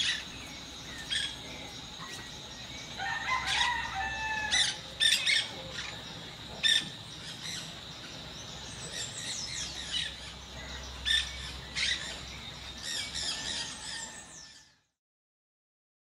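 Wild birds calling: a run of short, sharp chirps and calls, some of them loud, with a few quick falling notes, over a steady high tone. The sound fades out shortly before the end.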